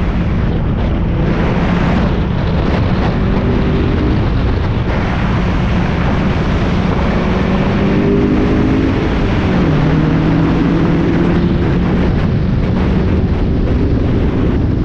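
Spec Miata's four-cylinder race engine pulling hard under throttle on track, its pitch climbing. About two-thirds through there is an upshift: the pitch drops, then climbs again. Wind and road noise run underneath.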